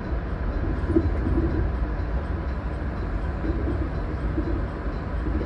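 115 series electric multiple unit running along the line, heard from inside the driver's cab: a steady low rumble of wheels and running gear with a few light knocks.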